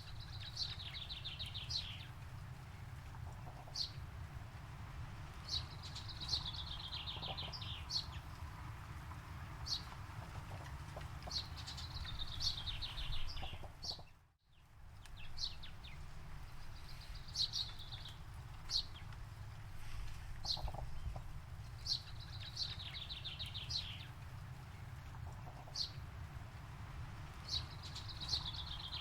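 A songbird singing a descending, buzzy trill of about a second, repeated every four to five seconds, with short single high notes between, over a steady low rumble of outdoor ambience. About halfway through, the sound briefly fades out and back in.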